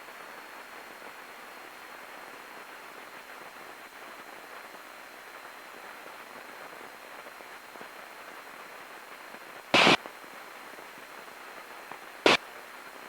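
Steady low hiss of cabin noise from a Cessna 180 in flight, heard through the aircraft's intercom audio feed. It is broken twice by a short, sharp click, about ten and about twelve seconds in.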